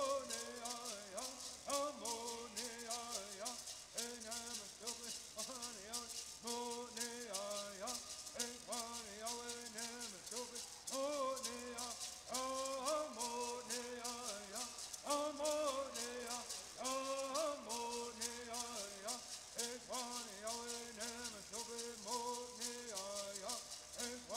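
Southern California Native American bird singing: voices chanting a song in gliding phrases over the continuous shaking of gourd rattles.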